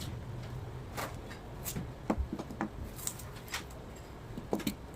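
Scattered small clicks and taps of hands handling the small parts of a robot car kit during assembly, over a low steady hum.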